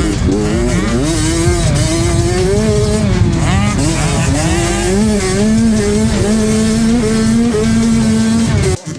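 65cc two-stroke dirt bike engine revving up and down as it is ridden, its pitch rising and falling with the throttle and gear changes. The sound cuts off abruptly near the end.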